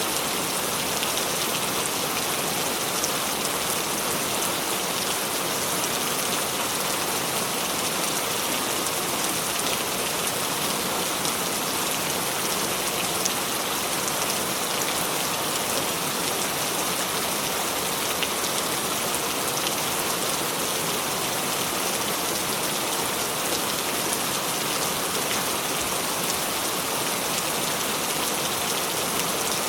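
Steady rain falling: an even hiss of many drops with fine scattered ticks, holding at the same strength throughout.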